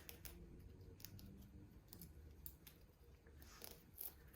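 Faint, irregular sharp clicks and snips of a Moluccan cockatoo's beak nibbling at the leaves of a Christmas cactus.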